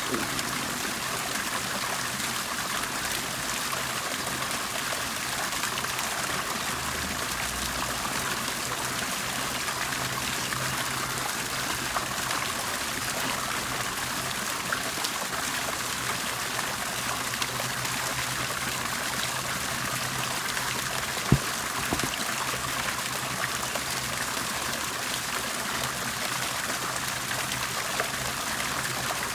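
Water bubbling and trickling steadily, with small splashes and one sharper click about two-thirds of the way through.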